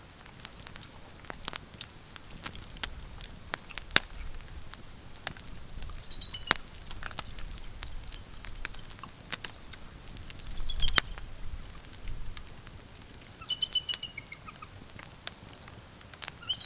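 Campfire crackling in sharp, irregular snaps, with a few short high bird chirps now and then.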